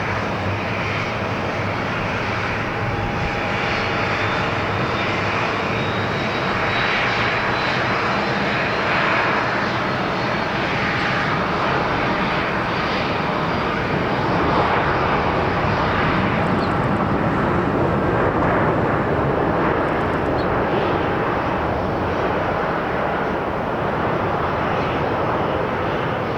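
Jet airliner landing, its engines giving a steady jet noise that swells a little past the middle. A faint high whine slowly falls in pitch.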